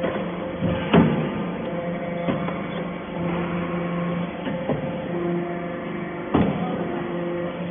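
Metal-chip baler with its conveyor running: a steady mechanical hum with a tone that comes and goes, and two loud clanks, one about a second in and one near the end.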